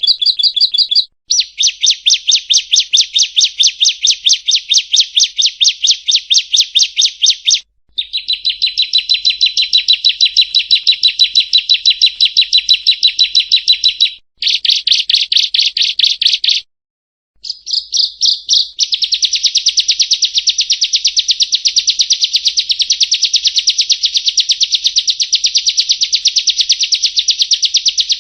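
Ciblek kristal (bar-winged prinia) singing its rapid-fire 'nembak' song: long runs of fast, evenly repeated sharp high notes, each lasting several seconds, broken by brief pauses.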